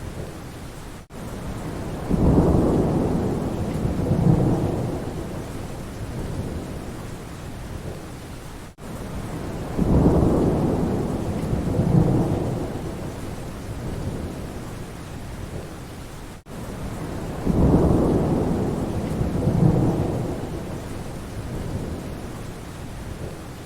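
Steady rain with rolling thunder: three low rumbles, each a few seconds long with two swells, coming about every eight seconds. A very short gap just before each rumble comes back like a loop restarting.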